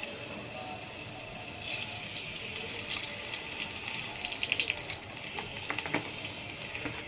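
Water running from a tap, with uneven splashing and small clicks from about two seconds in.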